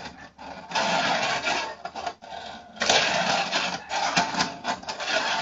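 Rustling, rubbing and scraping from Tech Deck fingerboard toys and their packaging being handled, in two long stretches with a short lull between them.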